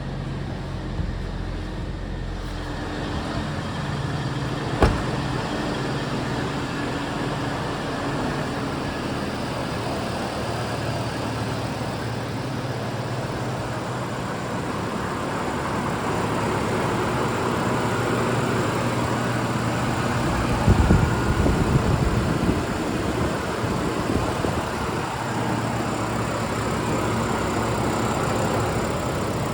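2011 GMC Canyon's 3.7-litre inline-five engine, with 130,000 miles on it, running steadily. There is a sharp click about five seconds in and a short run of louder low thumps about twenty-one seconds in.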